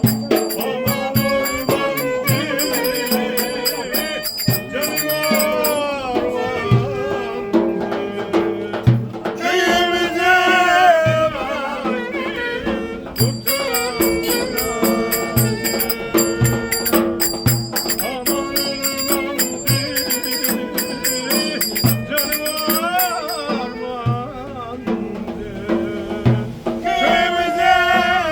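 Turkish folk dance music with a steady drum beat under a winding, ornamented melody.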